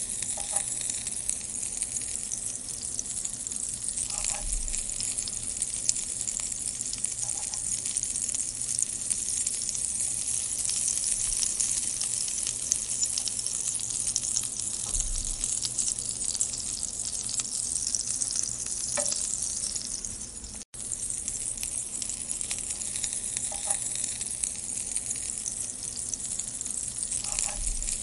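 Green chilli rings frying in hot oil in a non-stick pan: a steady high sizzle, with a wooden spatula stirring and scraping the pan every few seconds. The sound drops out for an instant about twenty seconds in.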